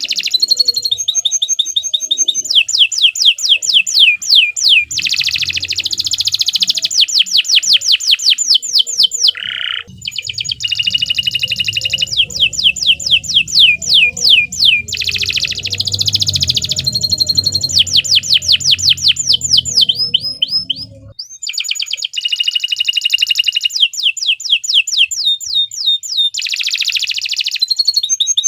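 Domestic canary singing a long, continuous song of fast trills: runs of rapid, repeated falling whistles, broken only briefly about ten and twenty-one seconds in. A low rumble sits under the song through the middle.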